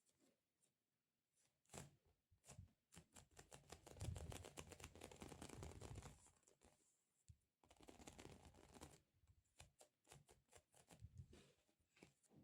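Faint close-up handling sounds: a dense run of fine crackles and ticks, like peeling or tearing, lasting several seconds, then scattered lighter ticks toward the end.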